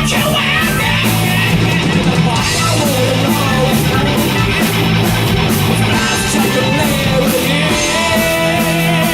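Live hard rock band playing, with electric guitar, bass and a steady drum beat; a lead line bends up and down in pitch through the middle.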